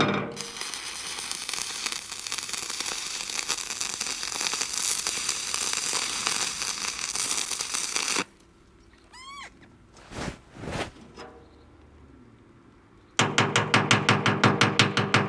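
Stick welding arc crackling and hissing steadily as a rod burns, struck with a sharp crack at the start and stopping suddenly about eight seconds in. Near the end a fast, regular run of sharp taps starts up.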